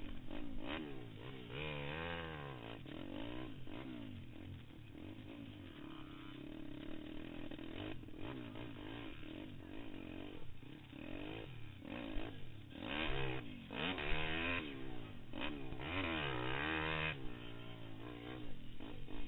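Pit bike's small single-cylinder four-stroke engine revving up and down over and over as the throttle is worked through a race, heard from the rider's helmet, at its loudest about two-thirds of the way through.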